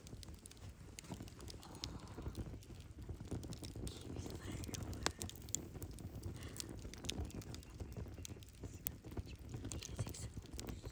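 Burning firewood crackling: irregular sharp pops and snaps scattered throughout over a steady low rush of the flames.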